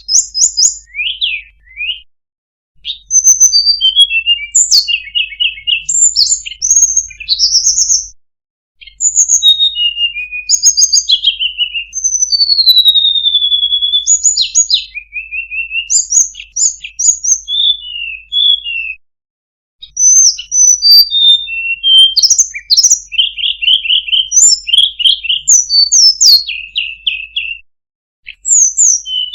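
Tledekan gunung songbird singing a long, varied, high-pitched song of quick chirps, slurred whistles and fast trills, in phrases broken by a few pauses of about a second.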